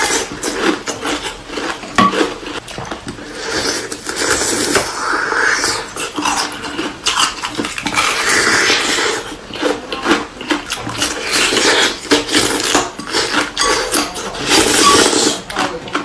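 Ice frozen with juice inside being bitten and chewed close to the microphone: repeated crunching and cracking, with many sharp cracks throughout.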